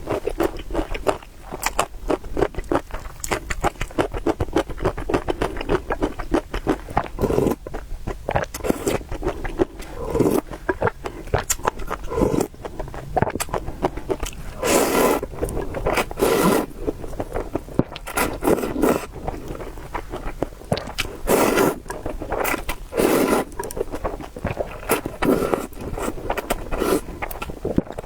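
Close-miked eating of noodles and meatballs: a rapid, continuous run of short chewing and mouth clicks, with several louder bursts in the second half.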